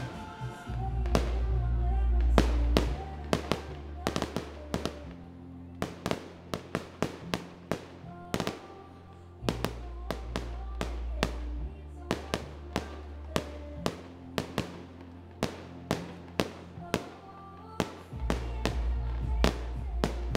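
Aerial fireworks shells bursting in a rapid, irregular string of sharp bangs, several a second, over music with a deep, heavy bass.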